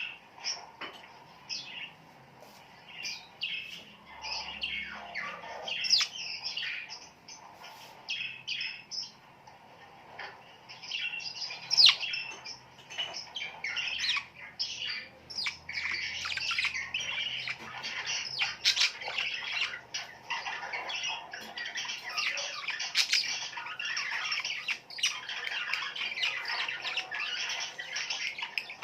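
Many birds chirping and squawking at once, short sharp calls overlapping in a busy chatter that thickens about ten seconds in.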